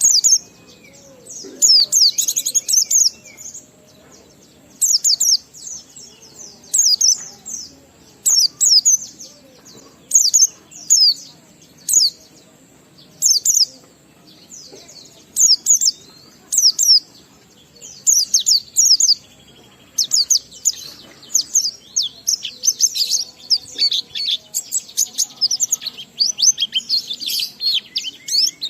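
White-eye (pleci) singing: quick, high-pitched twittering phrases in short bursts with brief pauses, running almost without a break in the second half.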